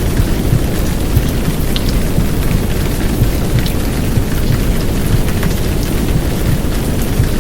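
Heavy downpour rain: a steady, dense hiss with scattered sharp drop ticks, layered over a low, muffled womb-sound rumble.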